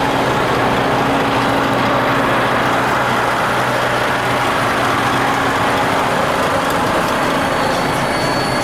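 DAF CF85 truck's straight-six diesel engine running steadily at a constant speed, with a low, even hum.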